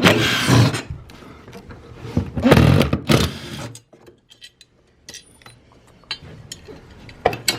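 Metal clattering and rattling as an overhead monitor's mounting bracket is worked on: three loud bursts in the first three and a half seconds, then faint scattered clicks and ticks.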